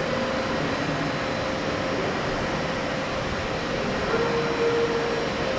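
Steady running noise of a train at a station, with a hum that grows stronger about four seconds in.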